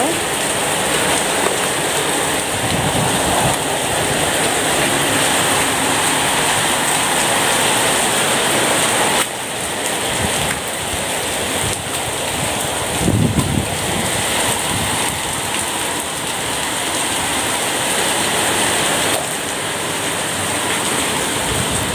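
Heavy rain pouring steadily, with one short louder moment about thirteen seconds in.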